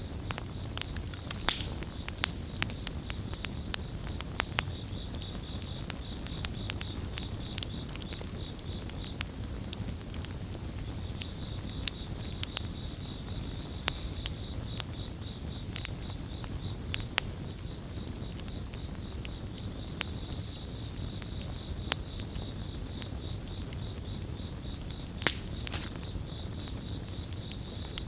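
Campfire crackling, with irregular sharp pops over a low steady rumble of the flames. Crickets chirp in a fast, even pulse that stops for a couple of seconds about ten seconds in. One pop near the end stands out as the loudest.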